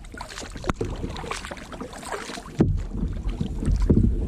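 Kayak paddle strokes in water, each blade dip giving a short splash, a few times a second or so apart, with wind rumbling on the microphone.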